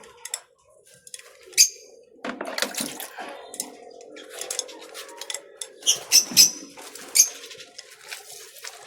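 Birds bathing in a shallow water dish: water splashing, with several sharp clinks against the dish, the loudest a quick run of three about six seconds in.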